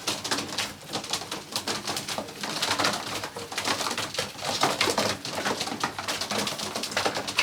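A loft full of young racing pigeons: many quick, irregular clicks and scuffles from the birds pecking and moving about on the boards, with some soft cooing.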